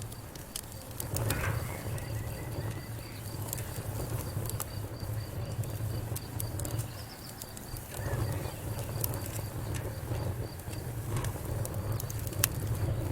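Wood fire burning in a fireplace, crackling with frequent sharp pops over a low rumble of flame.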